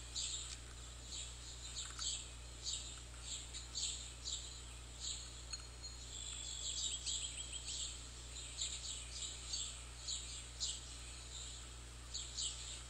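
Birds chirping in a rapid series of short, high calls, over a low steady hum.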